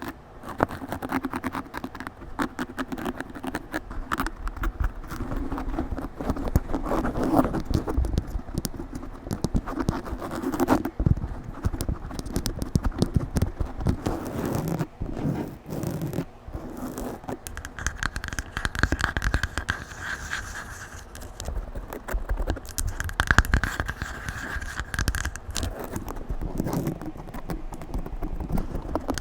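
A microphone being scratched aggressively right on its body, a dense, irregular run of loud rasping scrapes and crackly clicks.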